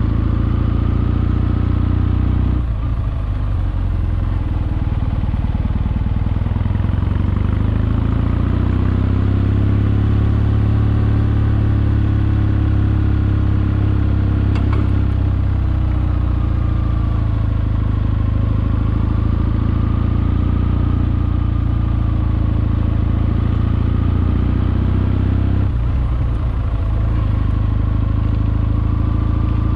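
Kawasaki W650's air-cooled parallel-twin engine with aftermarket Wyvan Classic mufflers, running under way on the move. It eases off briefly about two and a half seconds in and again near the end, rising in pitch as it picks up speed after each.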